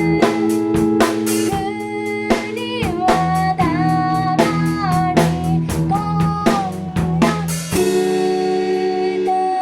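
Live indie-pop band playing a song on guitar and drum kit, with singing. The drums beat steadily, then stop about three-quarters of the way through, leaving a held guitar chord ringing.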